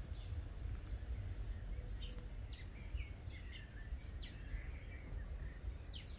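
Birds chirping outdoors, a scattering of short, quick falling chirps, over a steady low rumble.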